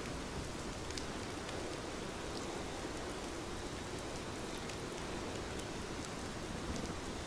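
Steady rain falling, an even hiss of rainfall with a low rumble beneath and scattered light drop ticks.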